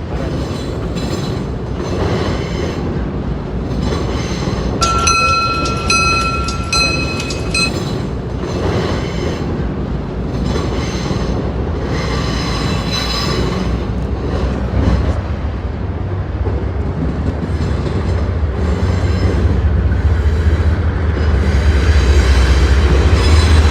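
Double-stack container freight train rolling past, its wheels clattering rhythmically over the rail joints. A brief high-pitched wheel squeal comes about five seconds in, and a deep rumble builds from about fifteen seconds on.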